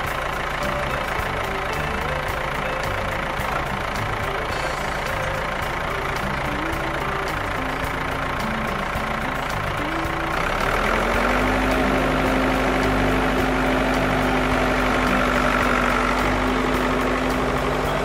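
Tractor engine sound effect running steadily. About ten seconds in, a louder steady hum joins it.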